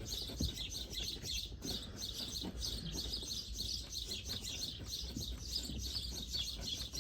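Small birds chirping continuously in a dense, rapid chatter, with a few faint knocks.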